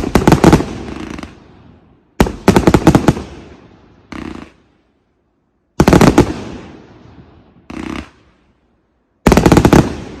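A 180-shot fan-style firework cake firing tail-to-salute shots: four loud volleys of rapid sharp bangs, each with a short, quieter burst of reports between it and the next.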